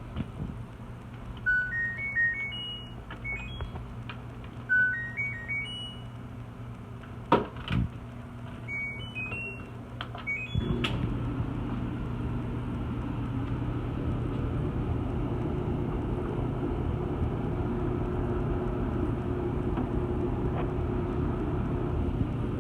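Stacked washer-dryer set's control panel playing three short runs of electronic beep tones, followed by two sharp clicks. About ten seconds in, the machine starts up with a steady, even hum that keeps running.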